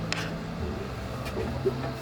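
Steady low mechanical drone of the Avió aeroplane ride's machinery running, with faint voices in the background and a click right at the start.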